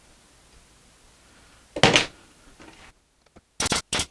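A single loud knock of wood on wood about two seconds in, as glued pallet-wood tray parts are handled, then a few short, sharp clicks near the end.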